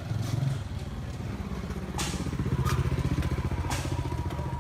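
A small engine running steadily with a fast low pulse, with a few sharp knocks over it.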